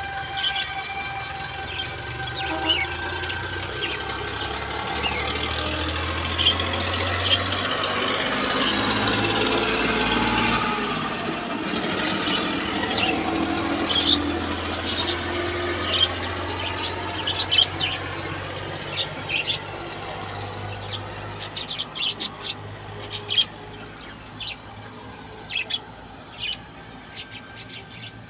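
Birds chirping in many short, quick calls over a steady low hum, the chirps standing out more clearly in the second half as the background fades.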